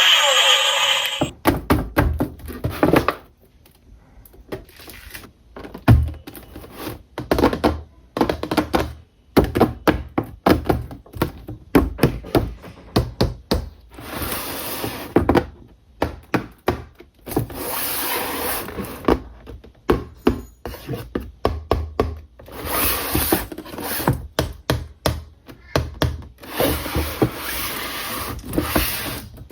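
Hands handling a toy remote-control car and its packaging: many short taps, knocks and clicks with stretches of rubbing and scraping. A brief pitched tone sounds in the first second.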